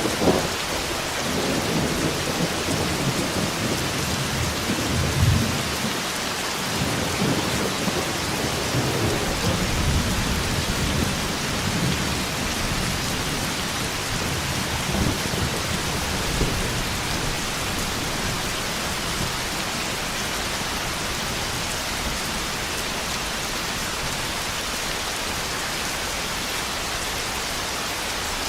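Heavy rain falling steadily, with low rolling thunder rumbling through the first half and dying away, leaving the rain alone near the end.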